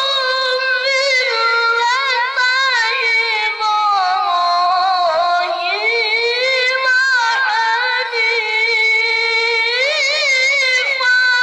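A child's high voice chanting Quran recitation (tilawah) in long, ornamented, melismatic phrases with wavering held notes. The pitch sinks in the middle and climbs again near the end.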